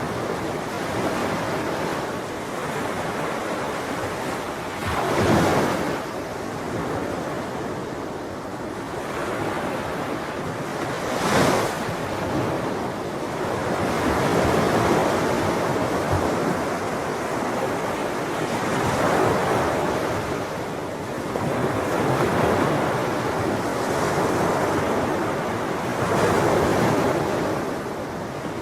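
Sea waves breaking and washing on a shore, a steady surf noise that swells and eases every few seconds, with two sharper crashes about five and eleven seconds in.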